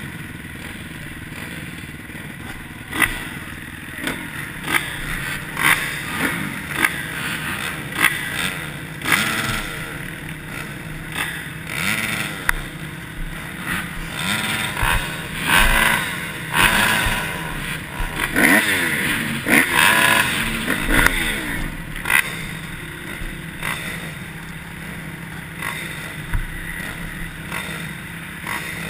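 Motocross dirt bike engines revving up and falling back again and again, with many short clattering knocks.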